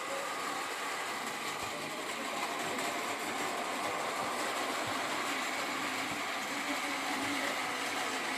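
Small battery-powered Daiso toy train running along plastic ceiling-mounted track: a steady whirring motor hum whose pitch drifts slightly, with a few faint clicks from the rails.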